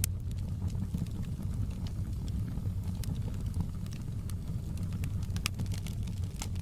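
Wood fire burning in a fireplace: a steady low rumble of flames with a few sharp crackles and pops scattered through it.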